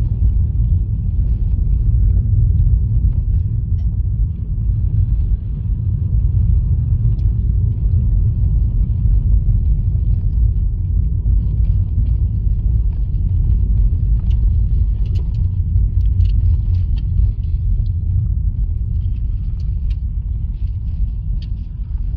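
Steady low rumble of tyre and road noise heard inside a Honda Fit's cabin while driving slowly on a snowy road strewn with sand and stones, with faint scattered ticks over it.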